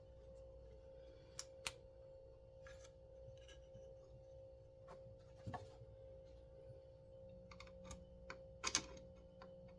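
Scattered light clicks and taps of small parts and tools being handled while working on a chainsaw's recoil pull starter, over a steady faint hum. The loudest is a quick double tap near the end.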